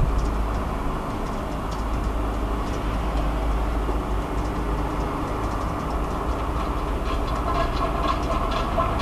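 Unidentified outdoor drone, recorded through a mobile phone's microphone: a steady low rumble with scattered faint clicks. About seven seconds in, metallic whining tones rise over the rumble.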